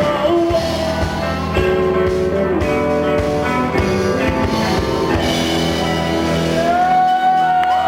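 Live rock band playing the closing bars of a song with electric guitars and drums, no singing, settling into one long held note near the end.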